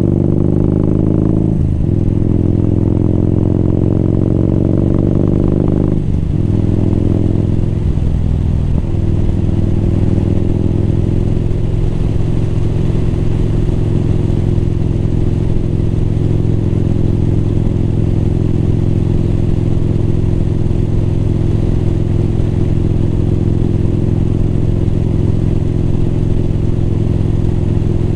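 Motorcycle engine pulling through the gears. The pitch climbs, drops at a shift a couple of seconds in, climbs again and drops at another shift about six seconds in, then settles into a steady cruise.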